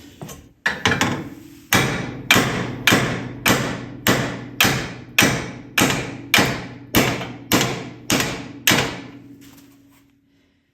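Hammer blows on the steel frame tower of an ATV, driving the bent tower back into line while a bottle jack presses on it: a steady run of about fourteen strikes, a little under two a second, each ringing briefly, stopping about nine seconds in.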